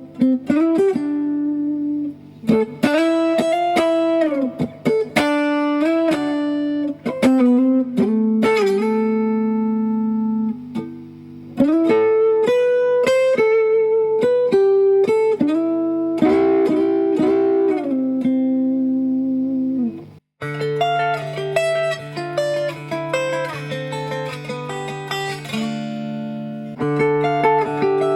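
Epiphone Les Paul Ultra electric guitar played through an amp after a fresh setup: melodic single-note lead lines with string bends. About 20 seconds in the sound cuts out for an instant, then a fuller run of overlapping notes and chords follows.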